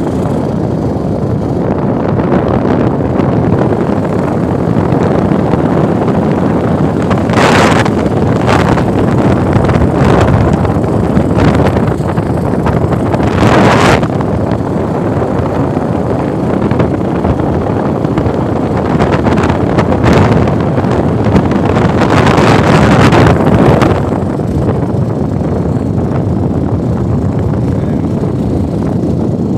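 A vehicle travelling, its running noise steady, with wind buffeting the microphone in several short gusts.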